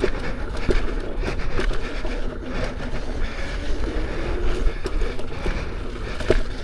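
Lynx electric unicycle riding fast over a rough dirt trail: a steady rumble of wind and ground noise with a rapid, uneven run of clicks and knocks from the tyre and wheel over rocks, one harder knock near the end.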